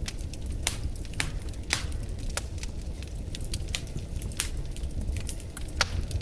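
Wood fire burning in a fireplace, crackling with irregular sharp pops and snaps, several a second, over a low steady rumble of the flames.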